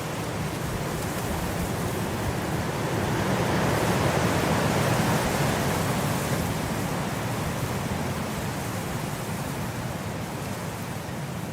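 Blizzard wind blowing as a steady rushing noise, swelling into a stronger gust about four seconds in and easing off again.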